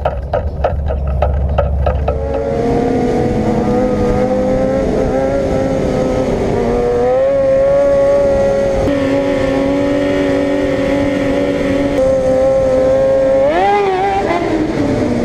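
Motorcycle engine running at high revs with a steady pitch that climbs slightly about seven seconds in, then revs up sharply and drops away near the end.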